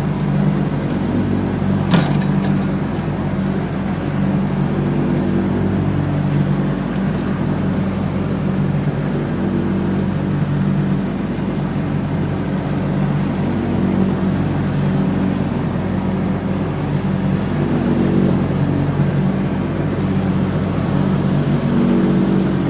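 John Deere ride-on lawn mower engine running steadily under mowing load, with a slight rise and fall. There is one sharp click about two seconds in.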